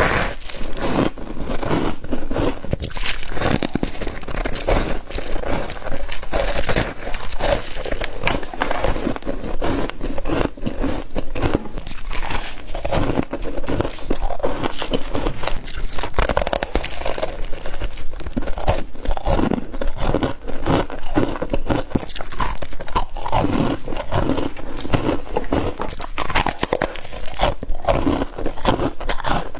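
Close-up biting and chewing of fluffy humidifier-grown freezer frost: continuous dense crunching and crackling with no pauses.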